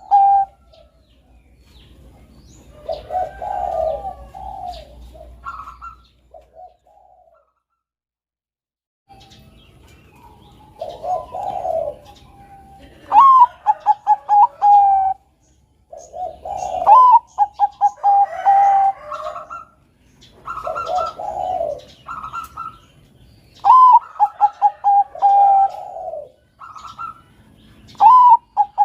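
Zebra dove (perkutut, Bangkok song strain) singing its staccato cooing song, phrases of quick rattling coo notes repeated every few seconds. The singing breaks off for about two seconds near a quarter of the way in.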